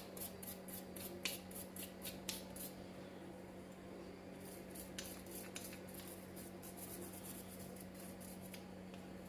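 Small brush scrubbing a moped carburettor part wet with petrol: quick scratchy strokes, about four a second, that pause midway with a few single ticks and pick up again near the end. A steady low hum runs underneath.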